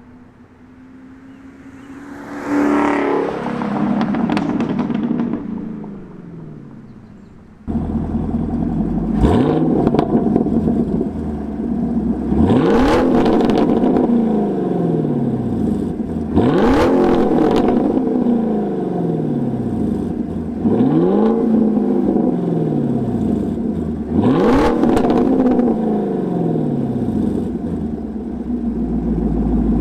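Chevrolet Camaro SS's 6.2-litre V8 being revved through Borla S-type axle-back exhaust: one rev up and down, then five quick throttle blips about four seconds apart, each snapping up in pitch and falling slowly back to idle.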